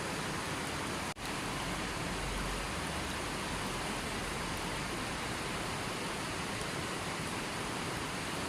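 Steady, even hiss of rushing water, with a momentary dropout about a second in.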